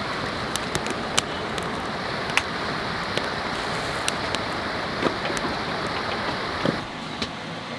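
Cedar campfire crackling, with sharp irregular pops over a steady rushing hiss. The hiss drops away about seven seconds in.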